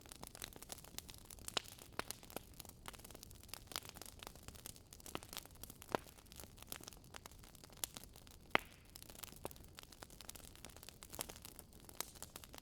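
Burning firewood crackling, with irregular sharp pops, several a second, over a low hiss.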